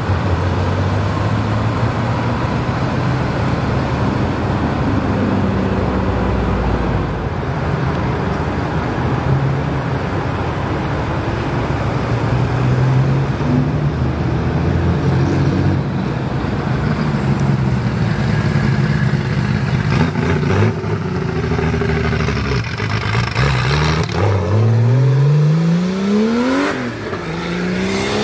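Air-cooled Porsche 911 flat-six engines running at low revs as the cars pull away. Near the end, an RWB widebody 911 accelerates hard up the ramp: its revs rise steeply, drop at an upshift, then rise again.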